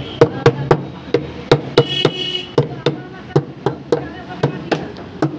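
Repeated hammer blows on metal, about three a second, each with a short ring, while dismantling a top-load washing machine's drum and gearbox assembly, where a nut is being worked loose.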